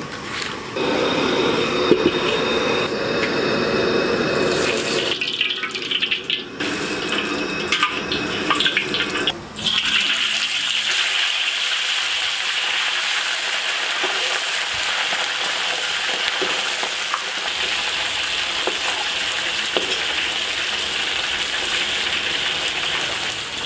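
A gas wok burner running with a low, rough rush for the first ten seconds or so, with a short break in the middle. Then a steady high sizzle of food deep-frying in hot oil in a steel wok takes over.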